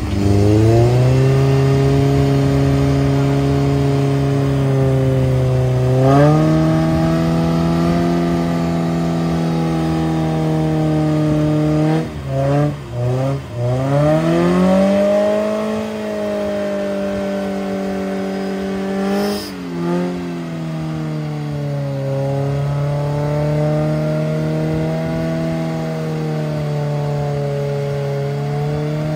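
Off-road 4x4's engine revved hard and held at high revs. The revs dip and climb back a couple of times midway, about twelve and nineteen seconds in.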